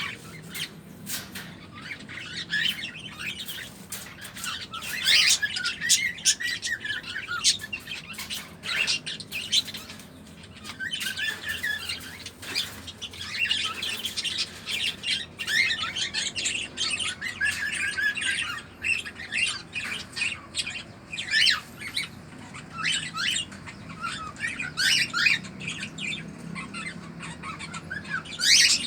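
Cockatiel calls: short, quick chirps and squawks in bursts, repeating on and off.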